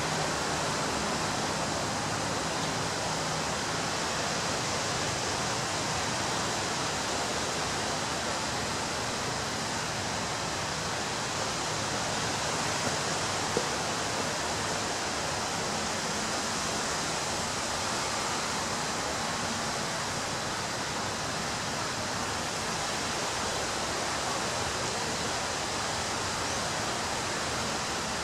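Ocean surf breaking on a beach: a continuous, even wash of noise without distinct separate crashes.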